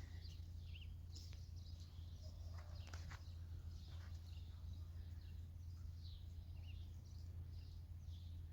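Faint short bird chirps scattered over a steady low hum, with a few sharp clicks around one and three seconds in.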